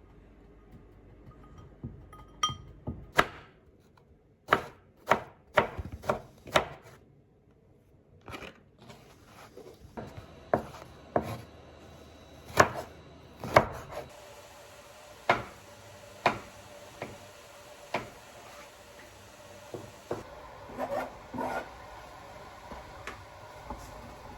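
Knife chopping on a cutting board in separate sharp strokes, a quick run of about two a second, then slower strokes about one a second.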